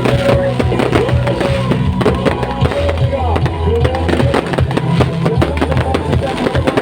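New Year fireworks bursting and crackling in quick, irregular bangs over loud music with a heavy, steady bass line, with voices mixed in.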